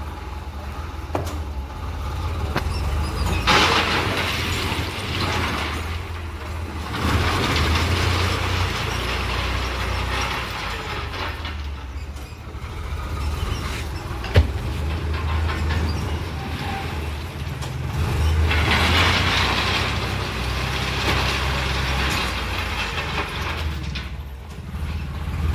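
Farmtrac tractor's diesel engine running with a steady low rumble, growing louder in several stretches as if working harder or moving closer. There is one sharp knock midway.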